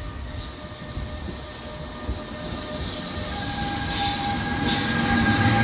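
NJ Transit train passing with its ALP-46 electric locomotive trailing: a steady rail rumble that grows louder as the locomotive draws level. Steady whining tones join about three seconds in.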